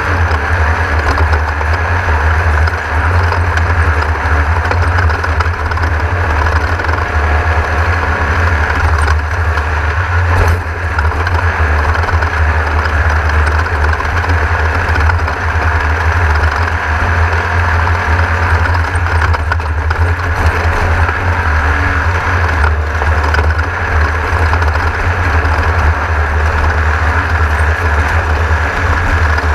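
Engine of a Class 1600 off-road race car, an air-cooled Volkswagen 1600, running steadily and heard from inside the car, with a heavy low rumble and no clear revving.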